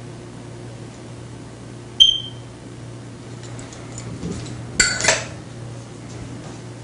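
Small metal objects clinking: one sharp ringing clink about two seconds in, then two quick clattering clinks near the five-second mark, over a steady low hum.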